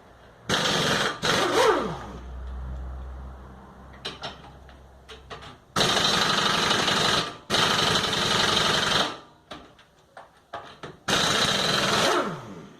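Power tool run in five bursts of one to one and a half seconds, loosening bolts on a car during gearbox removal; after some bursts its motor winds down with a falling whine.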